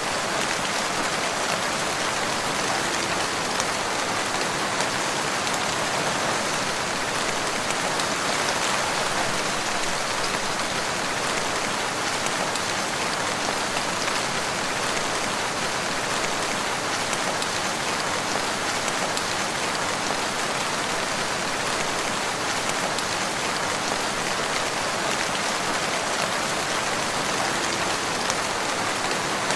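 Steady rain falling on a surface, a constant even hiss with scattered drop ticks.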